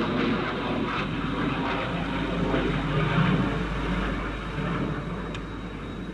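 Jet aircraft in flight, a television sound effect for an interceptor: a steady engine rumble and hiss that slowly fades.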